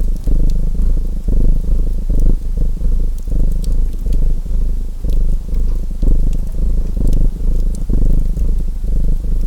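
A domestic cat purring close up, a low rumble that swells and eases with each breath, over faint scattered crackles of a wood fire.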